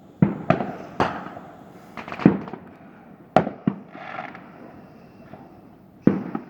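Fireworks going off, about nine sharp bangs at irregular intervals, each with an echoing tail, and a brief hiss around four seconds in.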